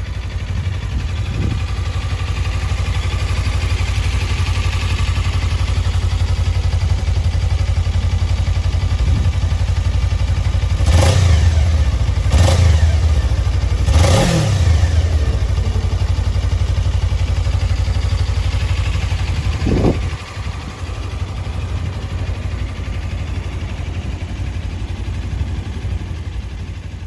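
Suzuki V-Strom 250's parallel-twin engine idling steadily. It is blipped three times in quick succession about eleven to fourteen seconds in, and once more, more briefly, near twenty seconds, each rev rising and falling back to idle.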